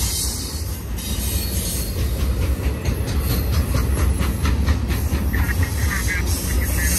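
BNSF double-stack intermodal freight train of shipping containers in well cars rolling past, its wheels and cars making a steady heavy rumble. A run of regular clicks from the wheels over the rail joints comes through the middle.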